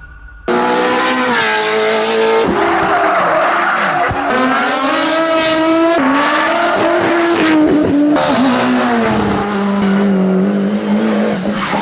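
Hillclimb race car engines at full throttle, their pitch rising and falling through gear changes, in short clips cut one after another about every two seconds.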